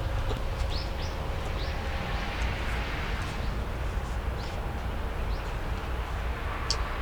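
Steady low rumble with a scattering of short, faint, high chirps from small birds.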